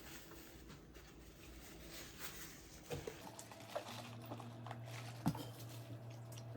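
Faint, scattered soft clicks and rustles of food and napkins being handled during a meal, the loudest click a little past five seconds in, with a low steady hum that starts about three seconds in.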